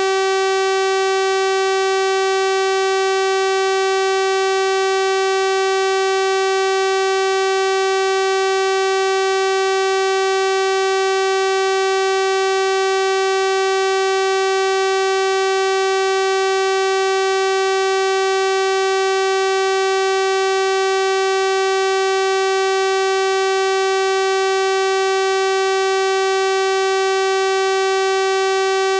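Synthesized 384 Hz sawtooth-wave tone, a steady buzzy drone that holds the same pitch and loudness without change.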